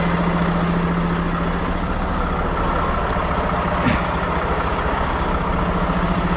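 Heavy truck diesel engine idling steadily, with one brief click about four seconds in.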